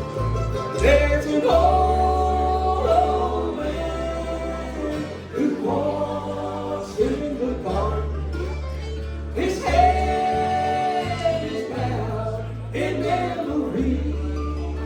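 A bluegrass band playing, with a sung vocal line over guitar and low bass notes.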